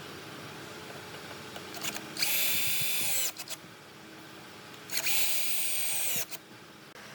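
Electric drill run in two short bursts of about a second each, spinning up to a steady high whine and winding down after each.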